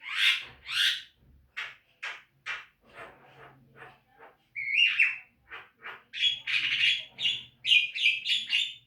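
Javan myna calling: a string of short separate notes about two a second, which runs into a faster, denser sequence of notes about six seconds in.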